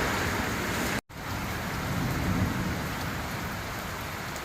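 Heavy rain pouring down, a steady hiss with a low rumble beneath it. It breaks off for a moment about a second in, then carries on.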